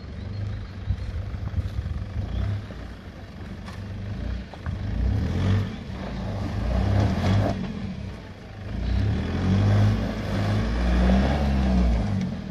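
Four-wheel-drive vehicle's engine working over rough off-road ground, revs rising and falling in surges that swell in the middle and again near the end.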